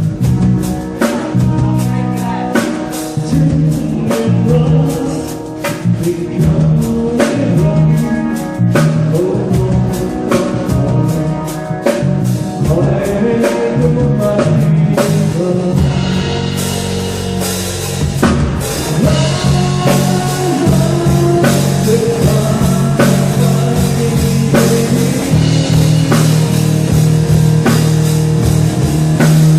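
Rock music with drum kit, electric guitar, bass and singing; the drums get busier and brighter with cymbals about halfway through.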